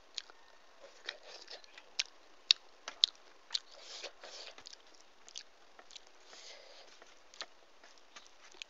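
Close-miked eating sounds: chewing a mouthful of rice and fish curry, with sharp wet mouth clicks and smacks, several in the first four seconds and a few more later. Around the middle there are softer squishy rustles of fingers mixing rice on a steel plate.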